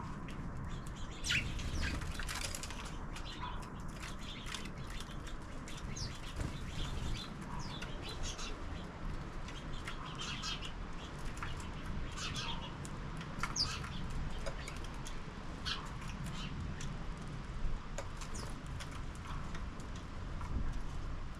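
Sparrows at a bird feeder: short scattered chirps and brief wing flutters, over a steady low background rumble.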